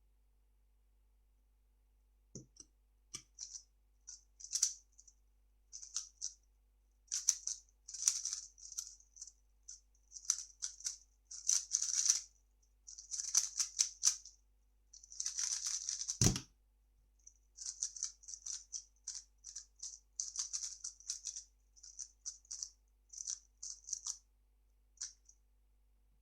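3x3 speed cube being turned fast in clattering bursts of plastic clicks and rattles, with one dull thump about two-thirds of the way through, then more turning.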